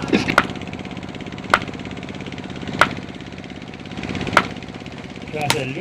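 A steady low mechanical hum with five sharp clicks or knocks spaced about a second and a half apart.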